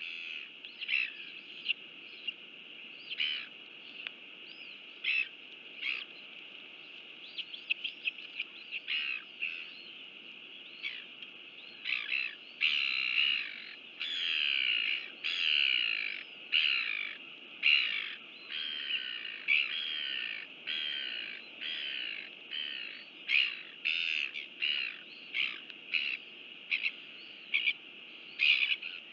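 Birds calling over and over in short chirps and squawks, closer together and longer from about halfway through, over a steady high-pitched hiss.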